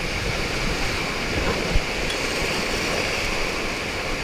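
Steady rush of river water around a raft, with an irregular low rumble of wind on the microphone.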